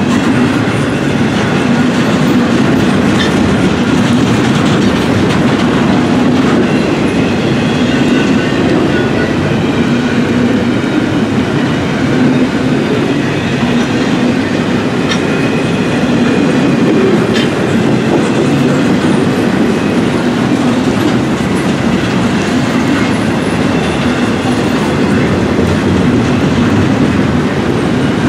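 Norfolk Southern intermodal freight train's cars rolling steadily past, a continuous loud rumble and clatter of wheels over the rails, with a faint high wheel squeal now and then.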